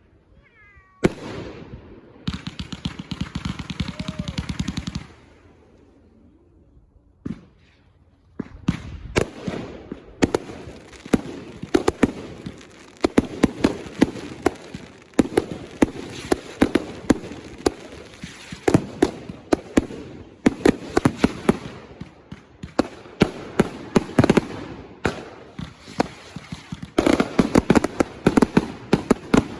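Consumer fireworks going off: a dense crackle for a few seconds near the start, then a rapid run of sharp bangs, several a second, that keeps going to the end, like a firework cake firing its shots.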